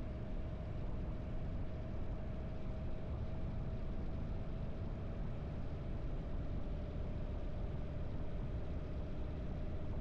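Harley-Davidson V-twin motorcycle engine running steadily while riding at an even pace.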